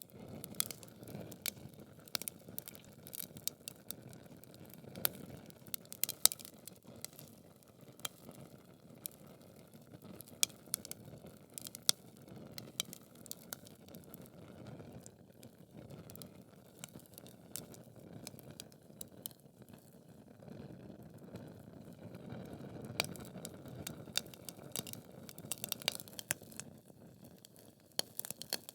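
Logs burning in a fireplace: a steady low rush of flame under frequent sharp crackles and pops, a few of them louder than the rest.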